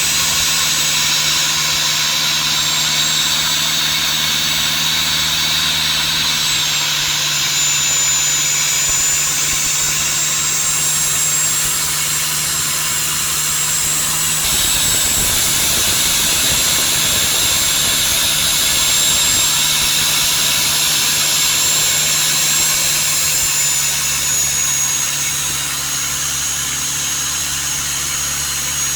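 Boat engine running steadily while the boat cruises, with a thin high whine above the drone.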